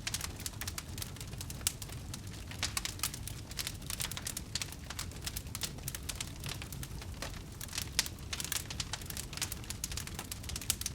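Wood fire crackling in a fireplace: a steady low rumble under dense, irregular sharp pops and snaps.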